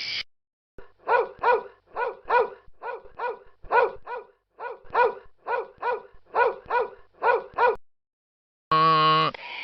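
A dog barking repeatedly, about two short barks a second, often in pairs, for about seven seconds. A short steady held tone follows near the end.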